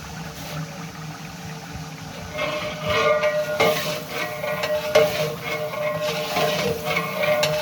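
Spices and chicken frying with a steady hiss in a large metal degh. From about two seconds in, a metal ladle scrapes and knocks against the pot while stirring, with ringing metallic tones and several sharp clanks.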